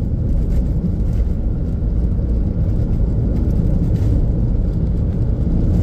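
Steady low rumble of road and wind noise from a car driving along, cutting off abruptly near the end.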